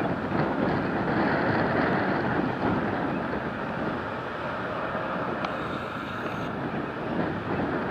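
Steady rushing roar of jet aircraft engines, with wind noise on the microphone.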